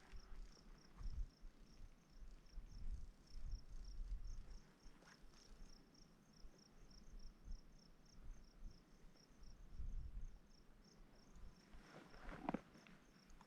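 A cricket chirping steadily, a few high chirps a second, faint under gusts of wind on the microphone, with a couple of crunching footsteps near the end.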